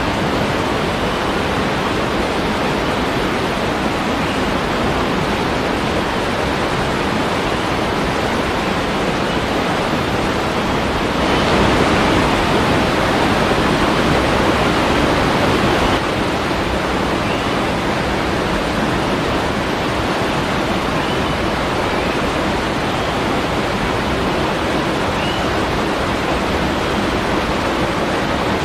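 Waterfall: a steady rush of falling water, louder for about five seconds in the middle, the louder stretch starting and stopping abruptly.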